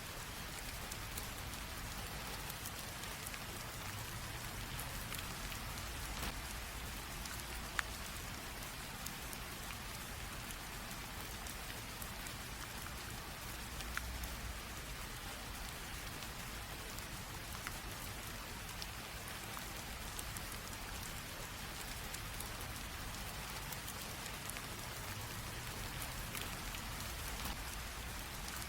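Light rain drizzling steadily, a soft even hiss with scattered single drop ticks and a faint low rumble underneath.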